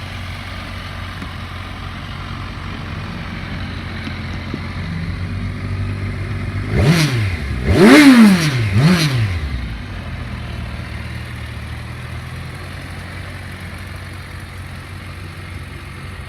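2015 Kawasaki Versys 1000 (KLZ1000) inline-four engine idling steadily, then revved in three quick throttle blips about halfway through, the middle one the highest and loudest, before settling back to idle.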